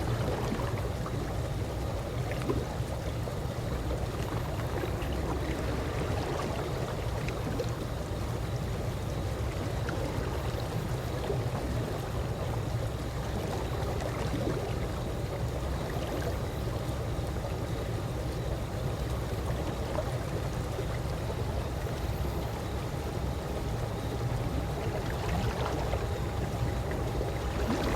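Calm pool water: a steady wash of water with many small trickles and splashes, even in level throughout.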